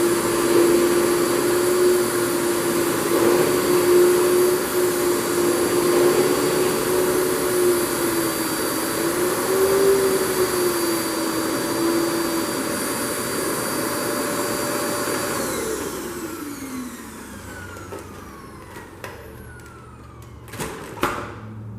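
Fantom Thunderbolt FM239 canister vacuum cleaner running with a steady whine and a wavering hum. It is switched off about 15 seconds in and its motor winds down, falling in pitch. A few knocks follow near the end.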